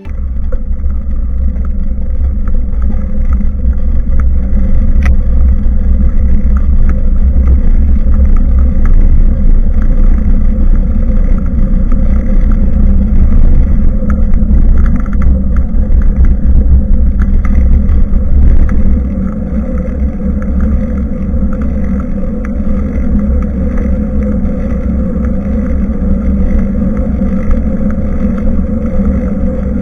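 Wind rumbling on a bicycle-mounted action camera's microphone while riding, with road and tyre noise mixed in; it eases a little about two-thirds of the way through.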